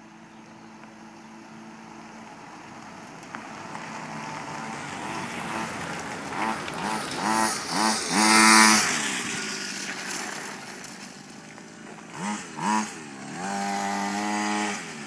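Small mini motocross bike engine approaching and revving in short blips that rise in pitch, loudest about eight and a half seconds in, then fading as it moves off. Near the end come two quick revs and a held rev of about a second and a half.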